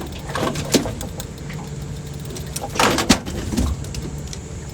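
Boat motor idling with a steady low hum, with a few knocks and rustling bursts of handling on the boat, the loudest a little under three seconds in.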